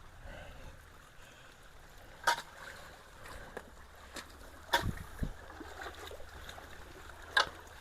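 Creek water running steadily, broken by a few sharp impacts about two, five and seven seconds in as debris in the creek is handled.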